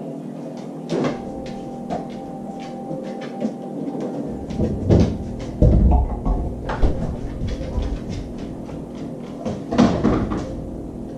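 Clicks, knocks and a few heavier thumps as a dog works at a refrigerator door to fetch a water bottle. The biggest thumps come about halfway through and again near the end, over a steady background hum.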